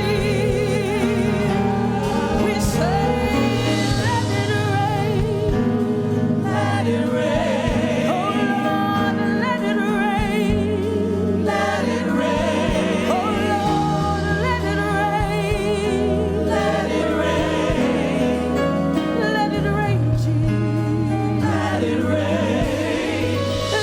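Gospel music: a choir and vocalists singing with vibrato over sustained instrumental accompaniment.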